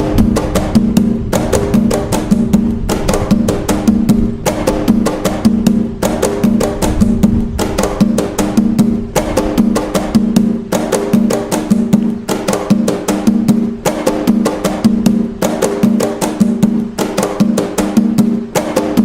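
Atabaque hand drums playing the toque nagô rhythm: dense, sharp strokes in a steady repeating pattern over a deep, ringing drum tone.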